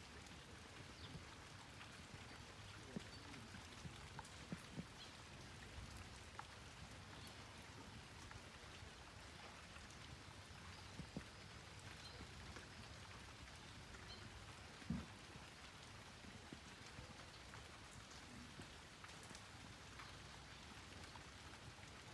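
Faint light rain: a steady patter with scattered drops tapping and dripping, and one louder tap about fifteen seconds in.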